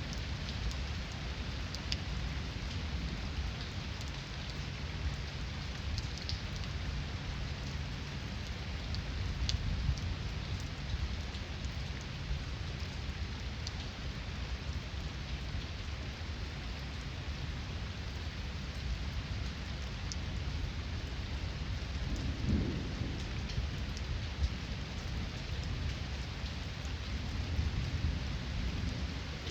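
Heavy rain falling steadily, with distant thunder rumbling low underneath. The thunder swells about two-thirds of the way through and builds again near the end.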